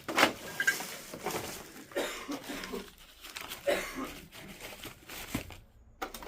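Irregular crunching, crackling and knocking of debris and old household items being handled and stepped on in a small room.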